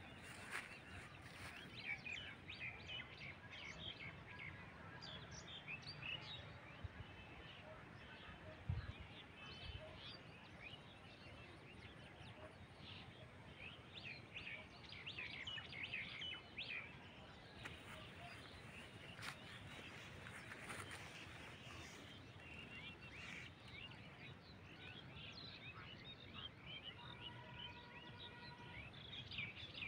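Small birds chirping and calling faintly, many short chirps overlapping, over a quiet hiss. A single low thump about nine seconds in.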